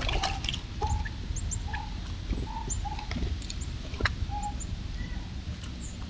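Several birds calling: scattered quick high chirps and a handful of short, lower notes about a second apart, with a few sharp clicks and a low rumble underneath.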